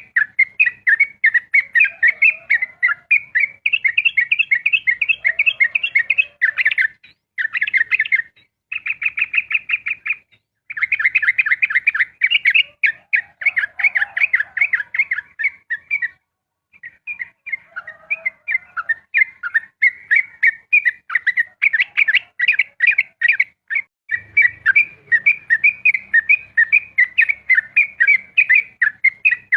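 Yellow-vented bulbul (trucukan) singing its long, rapid 'ropel' song: fast runs of bright chirps, many a second, broken by short pauses about a third and half of the way in.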